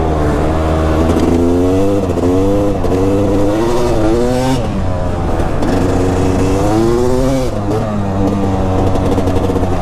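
Dirt bike engine revving up and easing off again and again, its pitch rising and falling with each burst of throttle.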